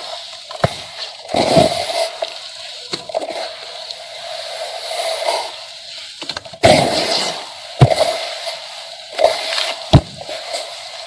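Chunks of white sand-cement concrete crumbling and breaking apart: a gritty crunching broken by sharp cracks, the loudest about six and a half seconds in, with more near eight and ten seconds.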